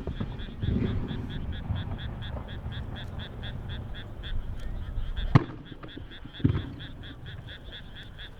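Fireworks shells bursting: a low boom about a second in, a sharp bang about five seconds in, then another low boom. Under them runs a steady chorus of rapid, evenly pulsed calls, about five a second.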